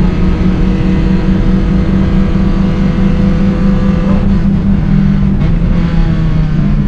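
Three track cars' engines heard from inside their cabins and layered together: a Hyundai HB20, a VW Voyage with a naturally aspirated AP 2.0, and a Renault Clio, all pulling at high revs. The several engine notes hold steady, then some drop in pitch a little over five seconds in as the cars lift or shift.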